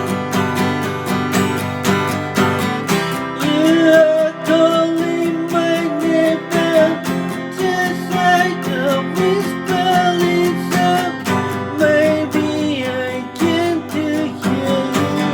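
Music: a guitar strummed in a steady rhythm, with a wavering melody line over it from about three seconds in.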